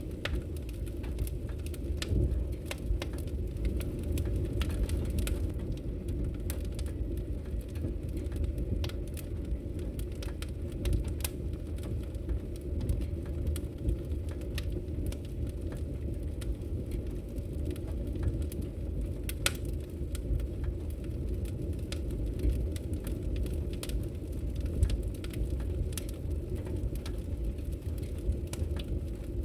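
Wood logs burning in a fireplace, crackling with scattered sharp pops over a steady low rumble.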